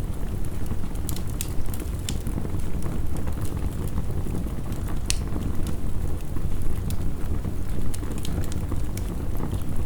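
Wood fire crackling, with frequent irregular sharp snaps and pops, over a steady low rumble of heavy rain.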